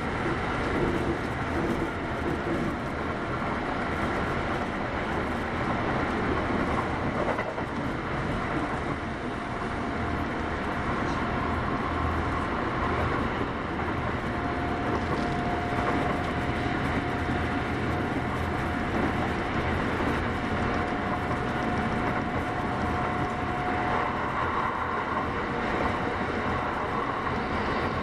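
Kintetsu 8810 series electric train running, heard from inside the car: a steady rumble of the motors and wheels on the track. A faint steady whine comes in about nine seconds in and fades out near the end.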